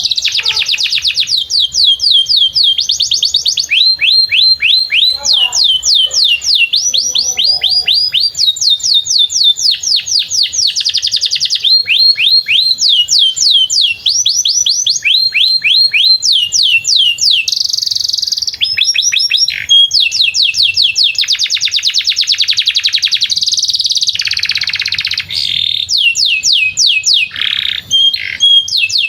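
Domestic canary singing a long, continuous song: fast trills of rapidly repeated downward-sweeping notes, with the pattern changing every second or two and only brief pauses.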